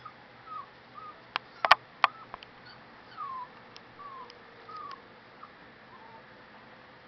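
Kittens mewing: short, thin, falling mews repeated every half second or so. A few sharp clicks about one and a half to two seconds in are the loudest sounds.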